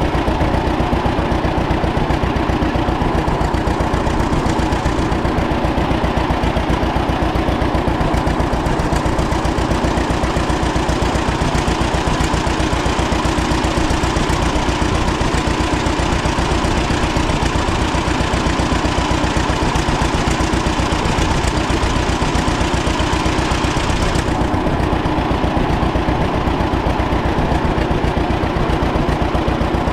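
1936 John Deere Model A's two-cylinder engine running steadily at idle, its firing beats coming evenly.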